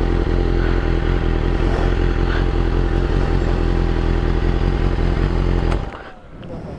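A 1000cc superbike engine runs loud and steady at a constant speed, then cuts off abruptly almost six seconds in.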